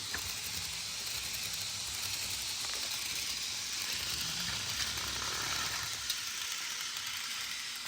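A steady hiss of background noise, with a faint click about six seconds in.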